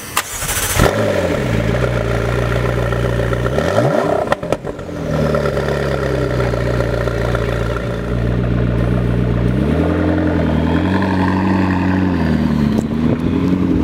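McLaren MP4-12C's 3.8-litre twin-turbo V8 firing up with a loud flare, its revs falling back to a steady high idle. It gives one quick rev blip about four seconds in, then idles again, with a few light throttle rises near the end.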